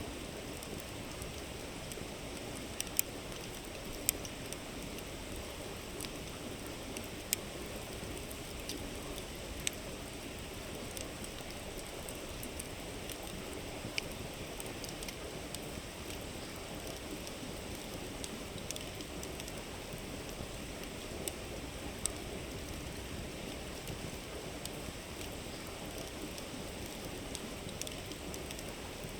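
Wood campfire crackling with sharp, irregular pops every second or few, over the steady rush of a flowing river. The loudest pops come about three and four seconds in.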